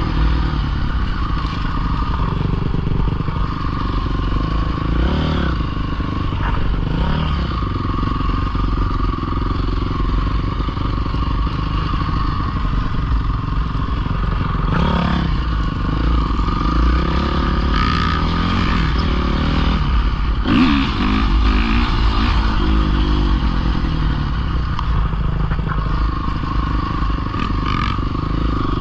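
Pit bike engine running hard under riding, its revs rising and falling several times, with some rattling.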